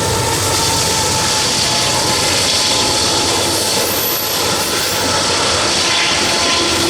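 Union Pacific double-stack container train passing close by at speed: a loud, steady rushing roar of locomotives, wheels and cars on the rails.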